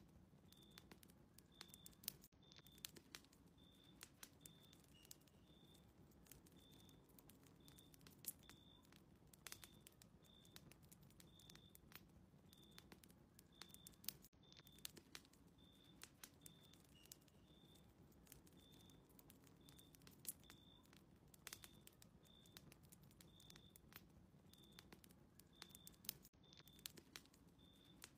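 Faint fireplace crackle: irregular sharp pops and snaps of burning wood over a low, steady rumble of the fire. A short, high chirp repeats about every two-thirds of a second throughout.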